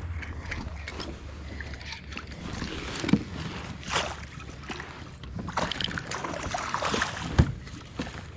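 A kayak moving on the water: irregular sloshing and swishing of water, with a sharp knock near the end, over a steady low hum.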